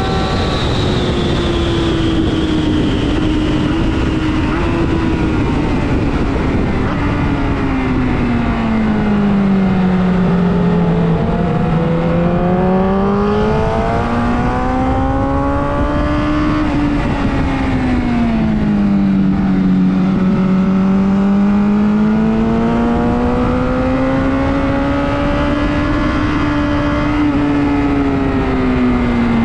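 Sport motorcycle engine lapping a racetrack. Its pitch falls as it slows into corners and climbs again as it accelerates out, over a constant rush of wind noise.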